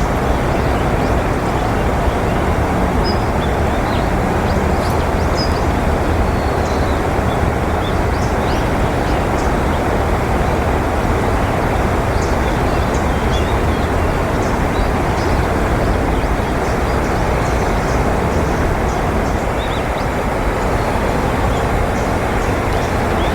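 Steady low rumble of distant road traffic, with faint high chirps of small birds scattered through.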